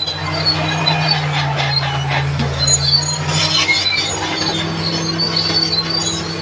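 Crawler bulldozer working: a steady diesel engine note under scattered short high squeaks and rattles from the steel tracks.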